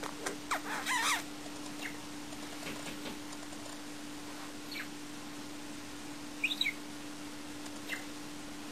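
A budgerigar chirping in short, scattered calls: a quick cluster of chirps in the first second, a few faint single chirps, then a sharper pair of high chirps about two-thirds of the way in.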